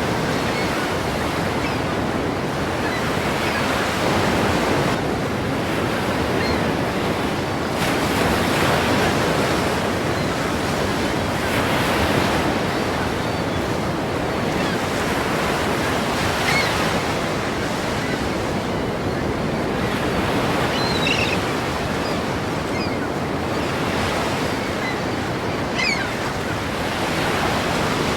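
Ocean surf breaking, a continuous rush of water that swells and eases every few seconds.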